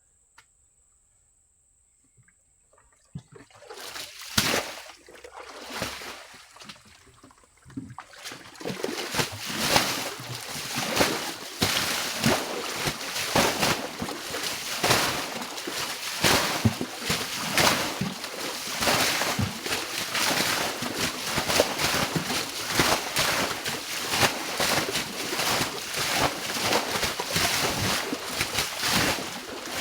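Water splashing and sloshing over and over. It starts faintly a few seconds in and turns into a continuous run of splashes from about eight seconds in.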